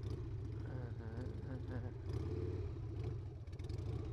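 Harley-Davidson Sportster's air-cooled V-twin engine running steadily at low speed, a constant low rumble.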